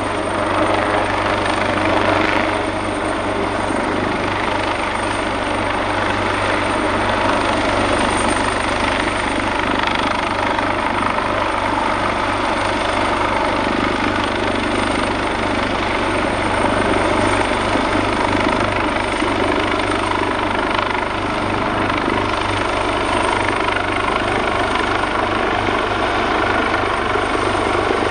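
AgustaWestland AW139 helicopter running steadily: its two Pratt & Whitney Canada PT6C turboshaft engines and five-bladed main rotor, loud and even throughout, with a thin steady high whine over the rotor noise.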